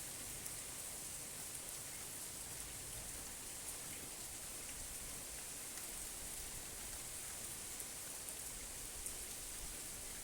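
Steady rain falling: a continuous even hiss with scattered small drop ticks.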